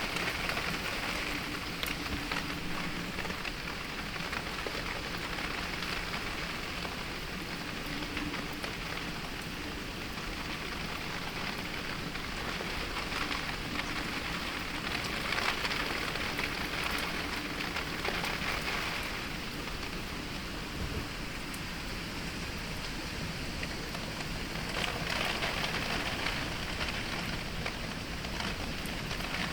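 Heavy rain pattering on surfaces, recorded binaurally at an open window in a storm. The downpour swells and eases in gusts every few seconds, with many individual drops ticking.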